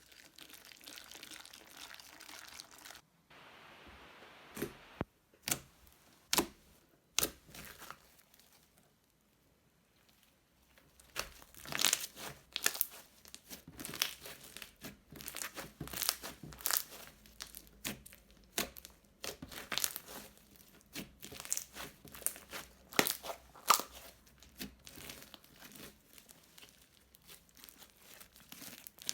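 Crunchy slime crackling and popping as it is squeezed and worked by hand. A soft hiss comes first, then a few scattered crackles, a short near-quiet pause, and from about a third of the way in a dense run of irregular crackles.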